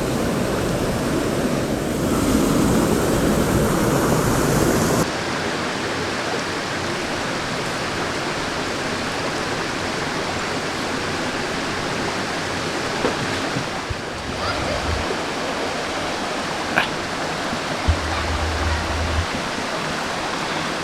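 Steady rush of water from a small waterfall on a mountain stream. About five seconds in the sound drops a little and loses its highest hiss, then runs on evenly with a few faint clicks.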